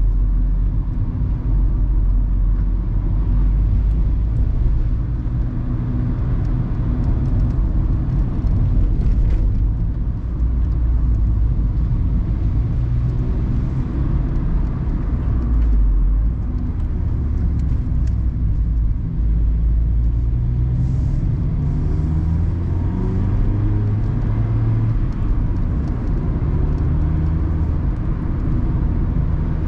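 Mazda ND Roadster's four-cylinder engine driving a winding mountain road with the top down, its note rising and falling as the driver accelerates and eases off, with tyre and wind noise in the open cabin.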